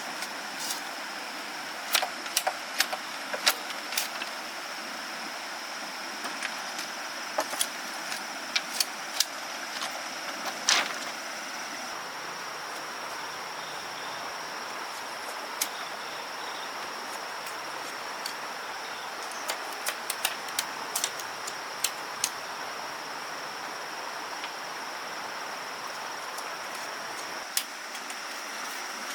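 Irregular sharp clicks and light knocks, bunched in the first half and again a little past the middle, over a steady outdoor hiss with a thin high steady tone.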